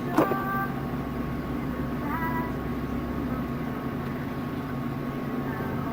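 Police radio channel between transmissions: a sharp squelch click with a short tone just after the start, and a brief rising chirp about two seconds in, over a steady hum.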